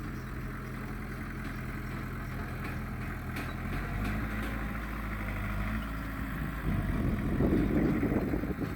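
Heavy diesel engine of earthmoving machinery running steadily, its note shifting about four seconds in. A louder, rougher rushing noise comes in near the end.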